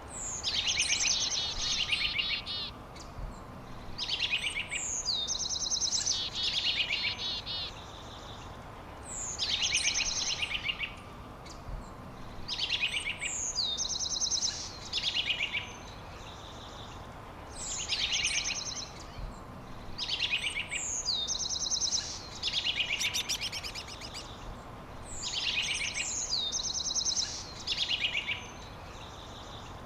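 A songbird singing the same short song over and over, every two to three seconds: each phrase opens with a high note sliding downward and runs into a fast, high trill. A faint steady background hiss lies underneath.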